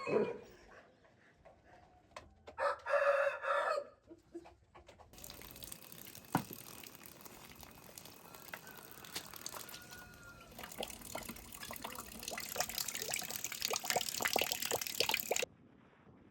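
A rooster crowing once, a call of about a second and a half. It is followed by a longer stretch of crackling, rustling noise with many small clicks that grows louder and then cuts off suddenly.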